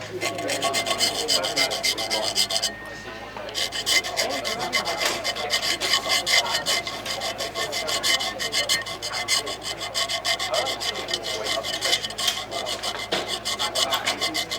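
A hand file rasping in quick repeated strokes on a compressor blade of a Bristol Olympus 301 turbojet, dressing out a nick left by ingested stones. The strokes break off briefly a little under three seconds in.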